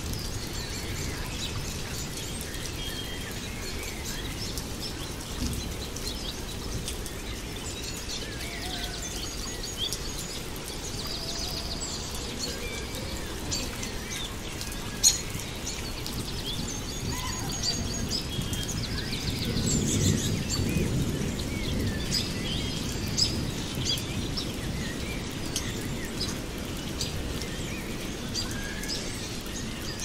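Birds chirping and singing in many short calls and trills over a steady hiss. A low rumble swells up about two-thirds of the way through.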